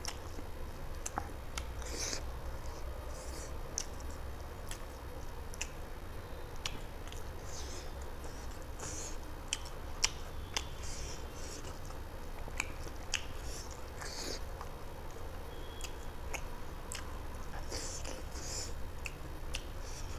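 Close-miked chewing and eating by hand, rice and chicken curry: a scattered string of short wet mouth clicks and smacks, over a steady low hum.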